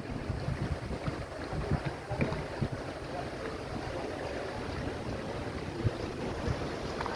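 Wind buffeting the microphone over the steady rush of river water, with a few soft knocks.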